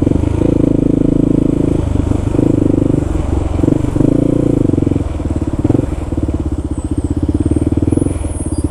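Kawasaki KLR650's single-cylinder four-stroke engine running as the motorcycle is ridden, the throttle opening and easing off several times, dropping to a lower, slower beat for a couple of seconds after about six seconds in.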